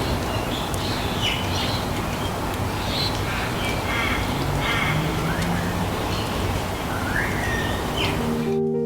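Birds chirping and calling, with short gliding calls, over a steady rumbling background noise. It cuts to soft music near the end.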